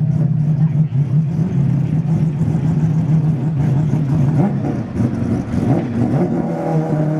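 Mazda rotary-engined racing car idling with a steady, low drone, its pitch shifting up and down in the second half.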